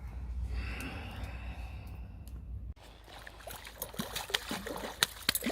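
Low wind rumble on the microphone with a breathy hiss. Almost three seconds in, this gives way suddenly to quieter sound with a run of small sharp clicks and knocks.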